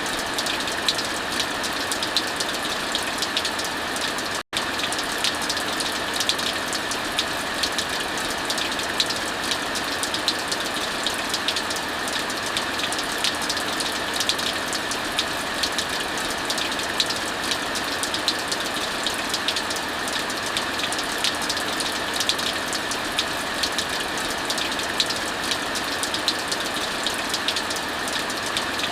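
Heavy rain falling steadily, mixed with a wood fire crackling in many small, quick pops. The sound cuts out for an instant about four and a half seconds in.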